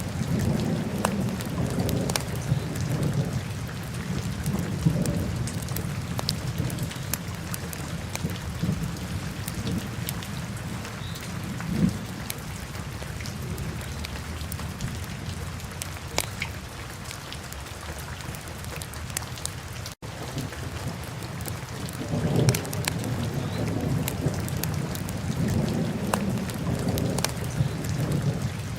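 Wood fire burning in a fireplace: a steady low rumble of flame with scattered sharp crackles and pops. The sound drops out for an instant about two-thirds of the way through.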